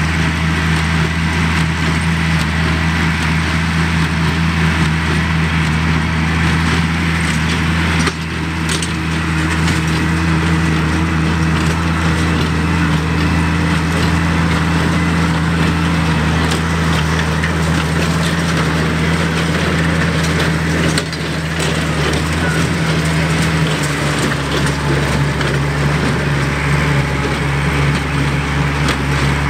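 An Oliver 770 tractor's engine runs steadily under load, driving a Sperry-New Holland 276 Hayliner small square baler whose plunger crunches and packs hay. The engine note shifts slightly about 24 seconds in.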